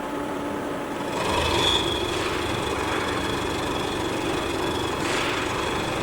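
CNC machine running while cutting: a steady mechanical hum with a high, steady whine. It grows louder about a second in, and brief hissy swells come and go.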